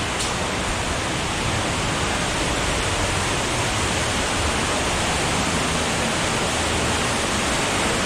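Cave stream and waterfall rushing loudly and steadily, the water running high.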